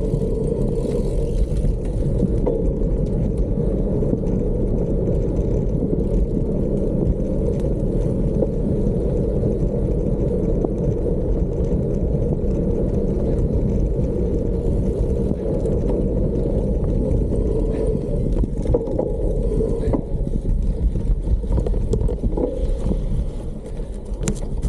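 Steady wind rumble on the microphone mixed with bicycle tyres rolling over a gravel and dirt trail, with occasional small clicks and rattles.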